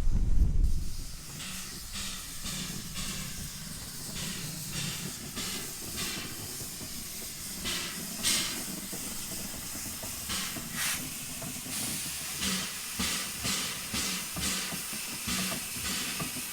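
Terrier steam tank locomotive hissing steam, with soft puffs of exhaust that become a slow, regular chuff of about two beats a second in the last few seconds as it eases back onto its train.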